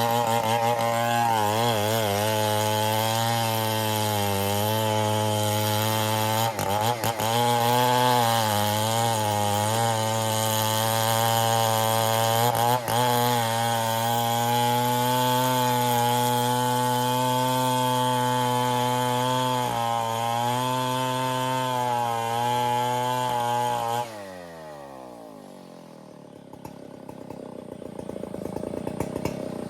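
Stihl 070 two-stroke chainsaw running at high revs through ironwood, its pitch dipping and recovering as the cut loads it. About 24 seconds in, the engine winds down with a steep fall in pitch, and a quieter sound builds near the end.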